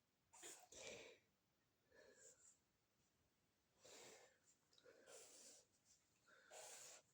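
Faint, irregular breathy puffs, like a person breathing close to the microphone.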